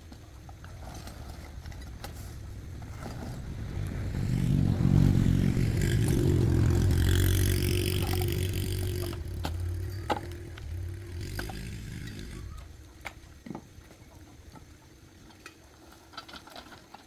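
A motor vehicle's engine comes closer, is loudest around the middle, and fades away, with scattered light clicks and knocks around it.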